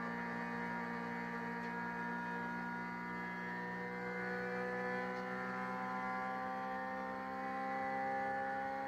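Honda Civic EG race car's engine heard from inside the cabin, a steady high engine note that climbs slowly in pitch from a few seconds in as the car accelerates.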